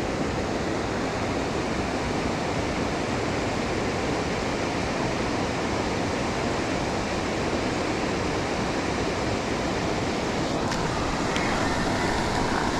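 Steady rushing of a waterfall, an even roar of falling water, with a couple of faint ticks near the end.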